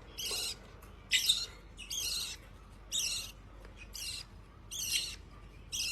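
Young hand-fed parrot chick making repeated begging calls for food: short, harsh, hissy cheeps about once a second.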